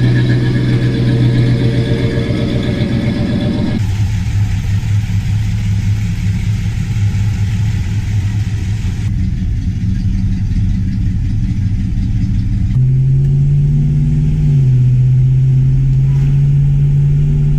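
V8 muscle car engines running steadily in a series of short cut-together clips, with the engine note changing abruptly about 4, 9 and 13 seconds in and dropping slightly in pitch near the end.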